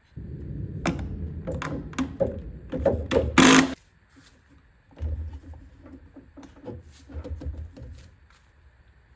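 Rapid mechanical rattling and clicking from parts being worked off a Stihl BR600 backpack blower, in two stretches with a short pause between them, the first ending in a short loud scrape.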